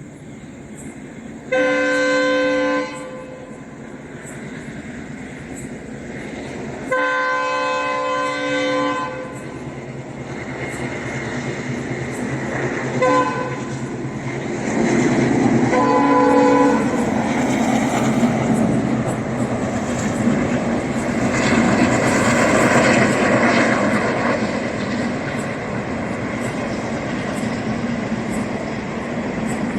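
WDG-3A diesel locomotive's horn sounding four times: a blast of over a second, a longer blast of about two seconds, a very short toot and a blast of about a second. The train then passes close by, with the ALCO diesel engine running and the coaches' wheels clattering over the rail joints, the rumble staying loud to the end.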